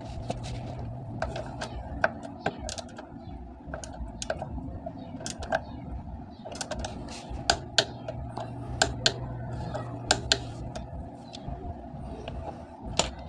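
Irregular sharp clicks and taps of hand tools, typical of work on scooter drain bolts, over a steady low hum.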